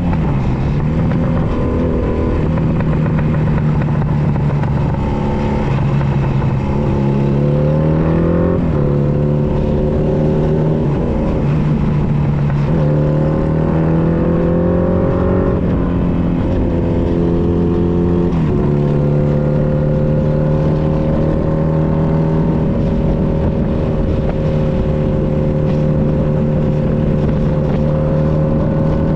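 Honda Nighthawk 250's parallel-twin engine and exhaust under way, pulling through the gears. Several times its pitch climbs and then drops suddenly at an upshift, and in the last third it settles into a steady cruise.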